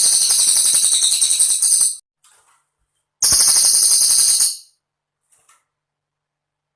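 Cililin bird singing: very high, rapid trilled phrases a second or two long, separated by short silences, with a third phrase just starting at the end.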